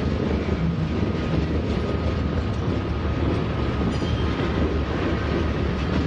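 Freight train's covered hopper cars rolling past, their steel wheels making a steady rumble on the rails.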